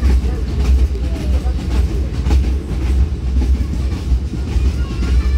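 Passenger train running along the track: a steady low rumble with irregular clicks of the wheels over the rails.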